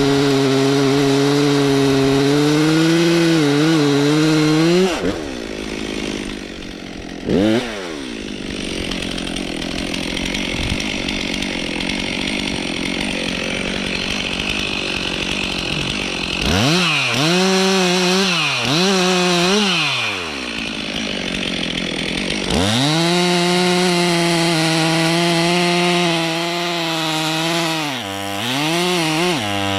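Stihl MS 362 C two-stroke chainsaw running at high revs while bucking birch. About five seconds in, its steady note gives way to a rougher, noisier sound for roughly ten seconds as it cuts through the wood. It then revs up and down several times in quick succession, runs steadily high again, and dips twice near the end.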